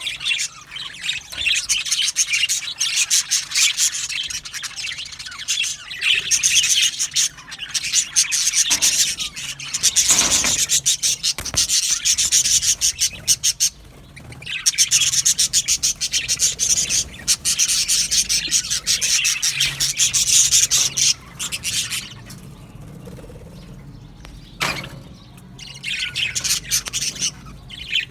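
Budgerigars chattering and chirping in rapid, busy runs, with brief lulls now and then.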